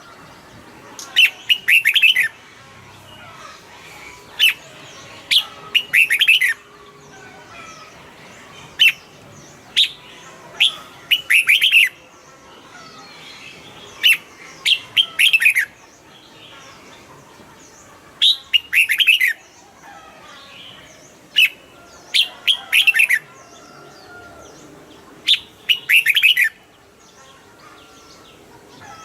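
Red-whiskered bulbul singing: short loud phrases of a few quick whistled notes, repeated every three to four seconds, over faint background chatter.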